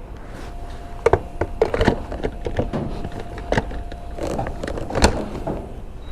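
Gas-station fuel pump humming steadily while a motorcycle is refuelled, the hum stopping about four and a half seconds in, with a run of sharp knocks and clicks from handling, the loudest about five seconds in.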